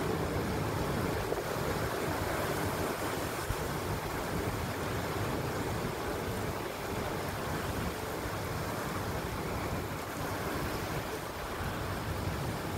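Heavy storm rain driven by strong wind, a steady rushing noise with no let-up.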